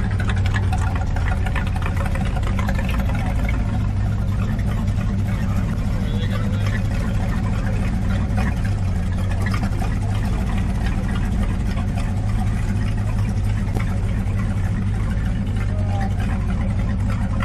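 A car engine idling steadily, with indistinct voices in the background.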